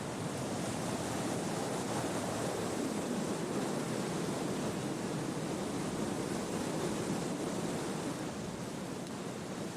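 Wind blowing through tree foliage, a steady rustle of leaves that eases slightly near the end.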